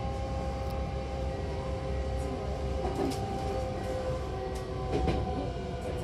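A Hankyu Takarazuka Line commuter train running between stations, heard from inside the car: a steady low rumble from the wheels and running gear, with a steady hum of several tones and a few sharp clicks.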